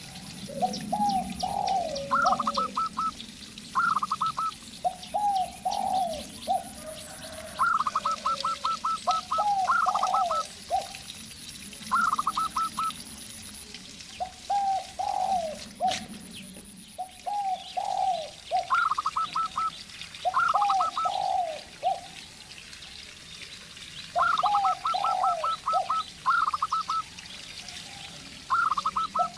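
Zebra dove and spotted dove calling back and forth: runs of quick, high staccato coo notes alternating with lower, falling coo phrases, repeating every couple of seconds. A single sharp knock about halfway through.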